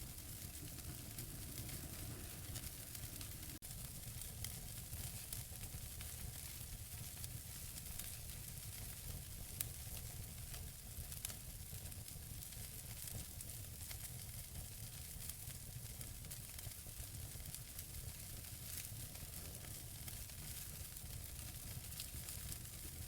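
Wood fire burning in a fireplace, with burning logs crackling: a steady soft hiss scattered with frequent small crackles and pops, and a sharper pop about ten seconds in.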